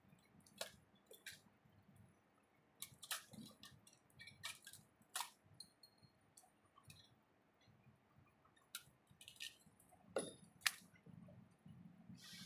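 Faint, irregular small clicks and taps, about a dozen, spread unevenly with near quiet between them, the sharpest about ten seconds in.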